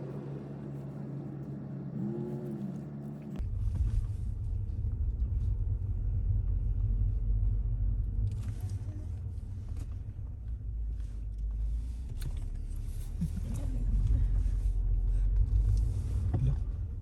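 Car driving: a steady engine hum, then about three seconds in a heavy low road rumble sets in suddenly and carries on.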